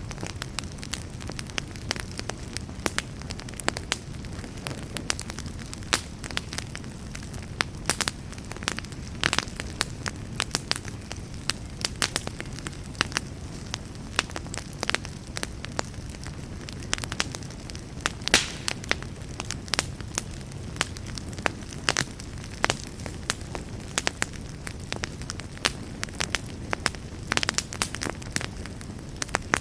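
Wood campfire burning: a steady low rumble of flames with irregular sharp crackles and pops, several a second.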